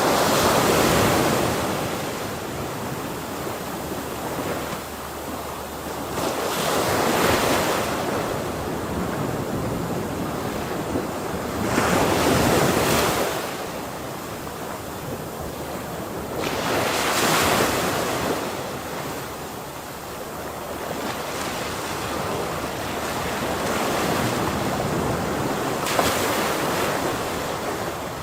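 Ocean waves breaking on a shore, one surge of surf about every five seconds over a steady wash, with some wind noise on the microphone.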